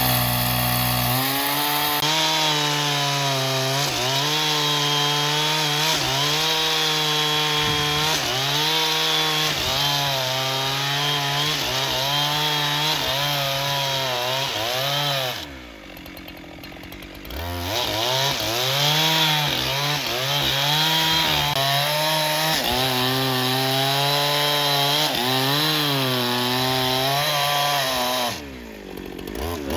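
Engine-driven saw cutting black teak. Its pitch sags and recovers again and again as the blade takes load. Twice it drops away briefly, about halfway through and near the end.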